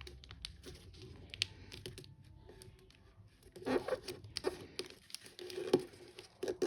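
Origami paper being folded and creased by hand: soft rustling and crinkling with small taps, busiest in the second half, with one sharper tap near the end.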